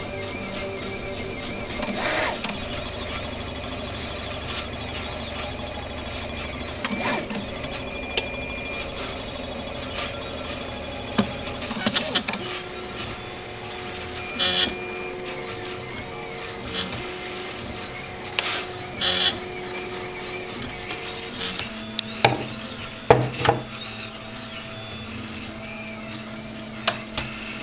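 RepRap 3D printer running a print: its stepper motors whine at steady pitches that change every few seconds as the axes move, with short clicks and ticks in between.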